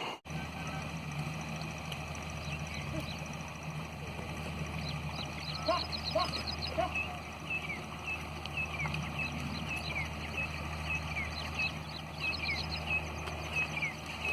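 Birds chirping, many short high calls repeated on and off, over a steady low hum.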